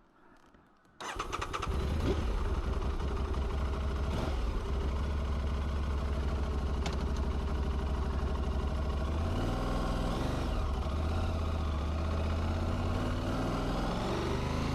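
Aprilia Tuareg 660's parallel-twin engine starting about a second in and then running steadily, its pitch shifting a couple of times later on.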